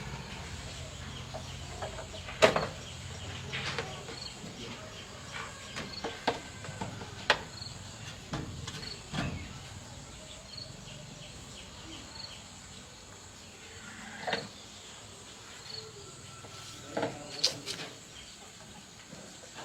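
Scattered sharp knocks and clicks, about a dozen spread through the stretch, over a steady background of insects chirping at regular intervals.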